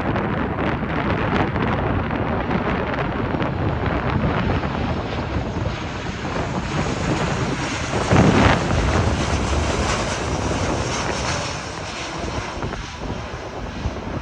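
Ryanair Boeing 737 jet airliner flying over low on approach to land, a dense rushing engine noise that swells a little past halfway through and eases off near the end, with wind buffeting the microphone.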